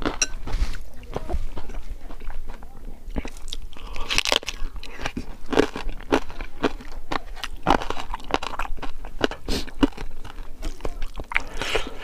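Crunching and chewing of crispy fried pork, close on a clip-on microphone: a run of short, sharp crunches throughout, with a louder burst about four seconds in and another near the end.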